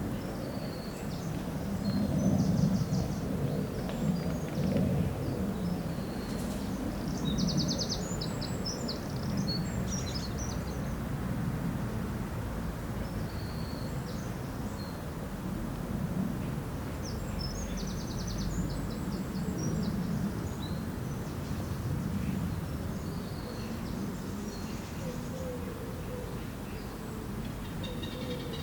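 Outdoor lakeside ambience: a steady low background rumble, with small songbirds calling now and then in short high chirps. A fast trill comes about seven seconds in and again about eighteen seconds in.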